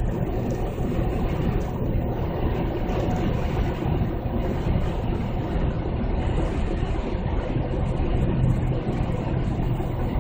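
2008 Chevy Tahoe's V8 running through an aftermarket Magnaflow muffler, a steady deep exhaust rumble with a low hum that swells slightly near the end.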